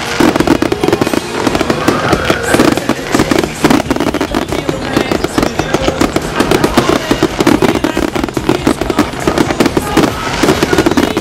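Fireworks going off in rapid succession, dense bangs and crackles, over loud music from the show's sound system.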